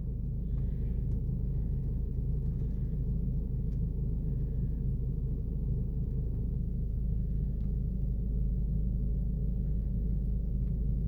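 Steady low hum of a car engine idling, heard from inside the car. It holds an even pitch and level throughout.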